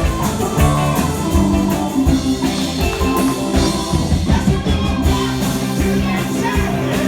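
Live rock band playing an instrumental passage, with guitar over a steady drum beat.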